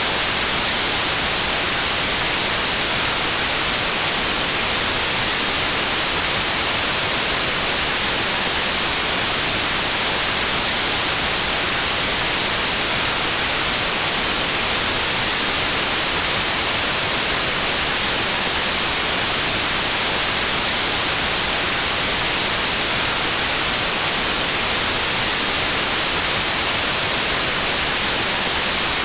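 Steady white noise: an even, unchanging hiss with most of its energy in the high end, with no variation or events.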